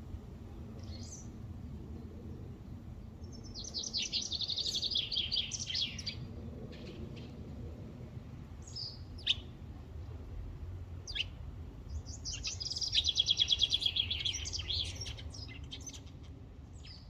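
A songbird singing: two long, rapid trilled phrases several seconds apart, with a few single short chirps between them.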